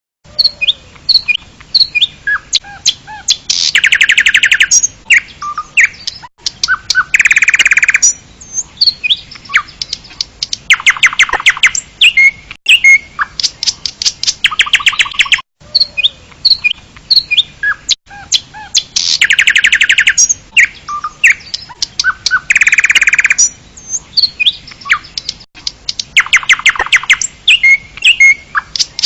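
Birds chirping, with many short calls and several fast rattling trills. The sequence repeats itself about halfway through.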